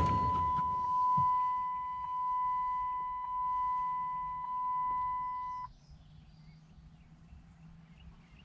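Dodge Ram pickup's dashboard warning tone sounding steadily with the key switched on, then cutting off suddenly about five and a half seconds in. Faint bird chirps follow.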